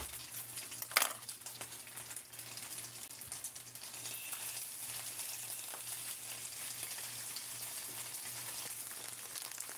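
Food sizzling and crackling as it fries, a steady crackly hiss, with a single knock about a second in and a faint steady hum underneath.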